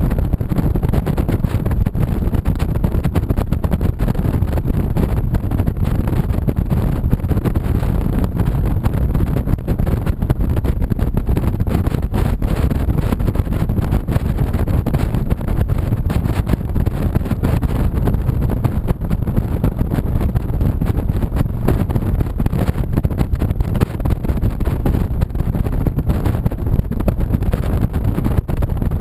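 2007 Honda VTX 1300C V-twin motorcycle running at a steady cruise, its engine under a loud, steady rush of wind on the microphone.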